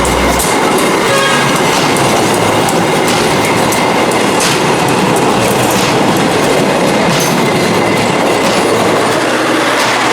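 Sibinong passenger train running on the line, a loud steady rumble of the cars with the wheels clicking over rail joints.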